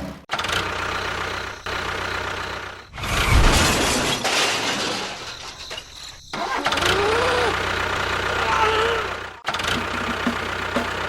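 An engine running in several short clips cut together, breaking off abruptly a few times, with a brief rise in loudness about three seconds in.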